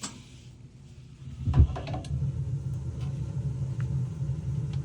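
Gas water heater's main burner lighting off the pilot with a low whump about a second and a half in, then burning with a steady low rumble.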